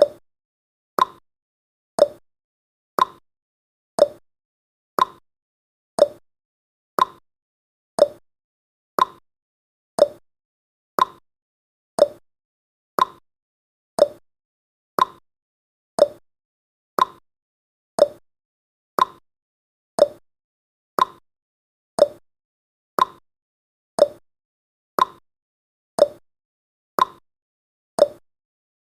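Countdown timer's clock-ticking sound effect: one short tick each second, alternating between a higher and a lower tick like a tick-tock.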